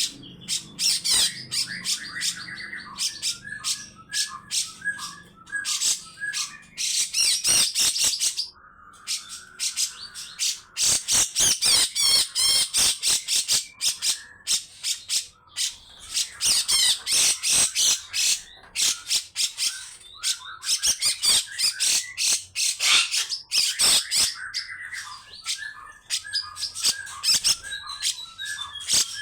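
Cucak jenggot (grey-cheeked bulbul) giving long runs of harsh, rasping chatter: fast strings of scratchy high notes in repeated bouts, with lower warbling phrases between them. Near the end a single whistle slides down in pitch.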